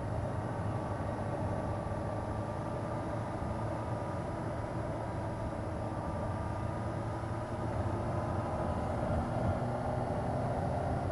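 Motorcycle engine running at a steady cruise, with wind rush over the rider, its pitch holding nearly even with only slight changes in speed.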